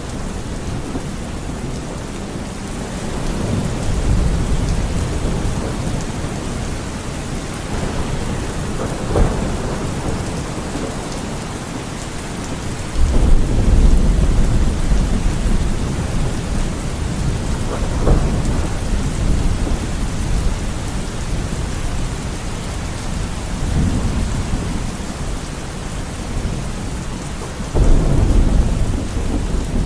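Steady rain with rolling thunder: low rumbles swell about four seconds in, start suddenly and loudest around halfway, and again near the end.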